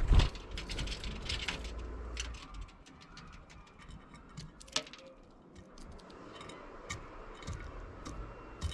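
Starlings pecking mealworms from a dish: an irregular run of sharp beak taps and clicks, loudest in a burst right at the start.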